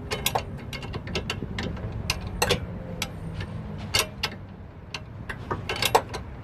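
Hand ratchet clicking in irregular spurts while a sway bar link nut on a Ford Explorer's front suspension is being tightened, over a steady low hum.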